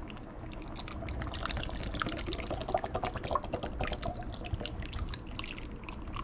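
Evaporated milk being poured from a can into a pot of hot soup, with small splashes and drips throughout.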